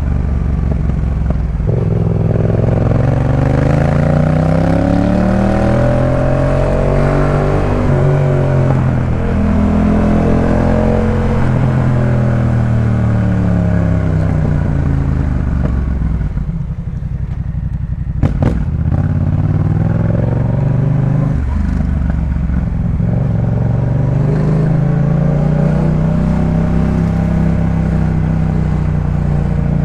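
Yamaha MT-07's parallel-twin engine through a Jeskap K4 full exhaust under way, revs climbing and dropping again and again as it pulls through the gears. Just past halfway it drops to a lower, quieter run, a sharp click sounds, then the revs build once more.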